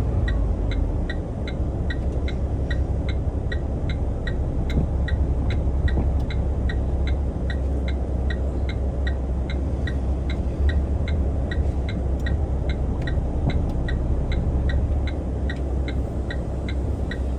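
Truck engine running steadily, heard from inside the cab as a low rumble, with an indicator ticking evenly at about two clicks a second.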